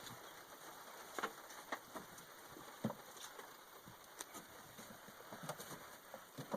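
Faint, scattered light clicks and knocks, about one a second, over a quiet background.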